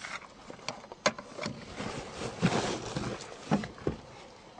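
Scattered clicks and knocks with soft rustling, someone handling things and shifting about inside the car before the key is tried.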